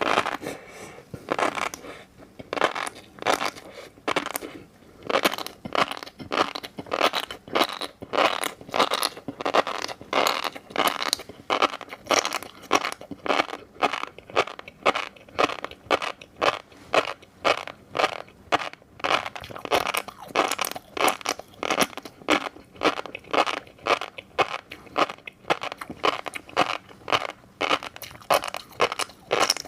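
Close-miked chewing of fish roe: an even run of crunches and pops, about two to three a second.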